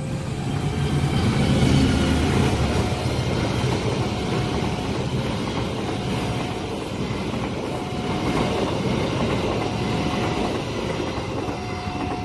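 Long train passing a level crossing: wheels rumbling on the rails with clickety-clack. A short steady tone repeats about every two seconds over it, typical of the crossing's warning signal.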